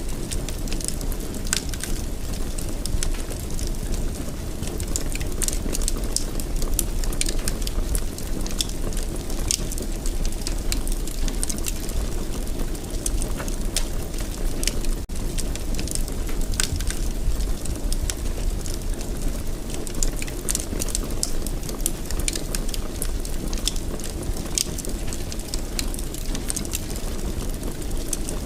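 Fireplace fire burning with a steady low rumble and frequent sharp crackles and pops.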